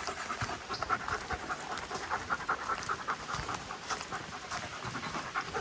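A dog panting quickly and evenly.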